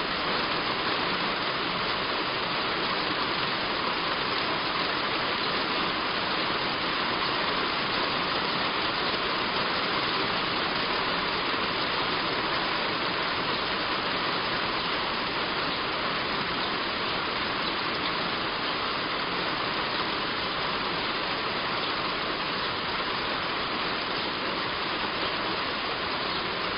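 Heavy rain falling steadily on a roof, a constant even hiss of drops.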